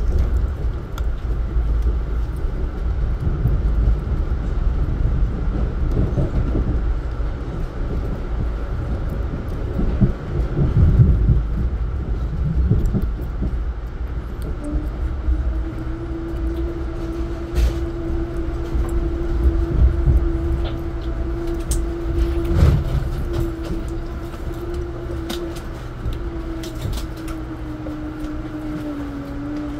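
Passenger train running, heard from inside the car: a steady rumble of the wheels on the track with a few sharp clicks. From about halfway a steady low whine joins in, and it dips slightly in pitch near the end as the rumble eases.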